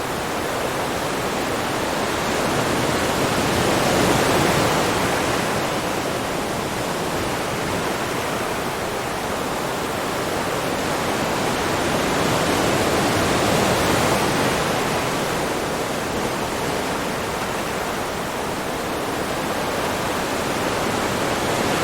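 A steady rush of ocean waves, swelling twice: about four seconds in and again around the middle.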